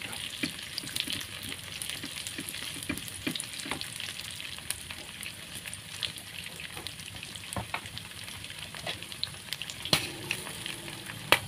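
Sliced garlic, shallots, chilies, ginger and galangal sizzling in hot oil in a nonstick wok, turned with a spatula that scrapes and clicks against the pan. A sharper knock comes about ten seconds in, and the loudest one just before the end.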